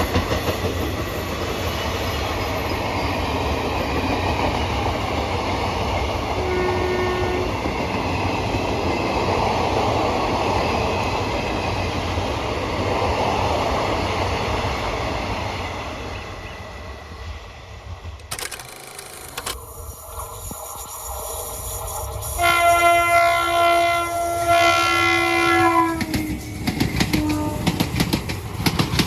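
Indian Railways train rushing past at speed with a steady rumble and a brief horn toot. Further on, a loud locomotive horn blast of about three and a half seconds, then a shorter lower note, and then the rhythmic clatter of wheels over rail joints as the train passes.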